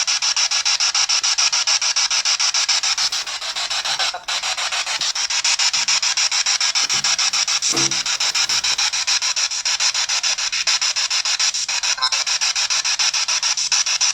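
Ghost box (spirit box) sweeping through radio stations: harsh static chopped many times a second, with a brief snatch of a voice-like sound about halfway through.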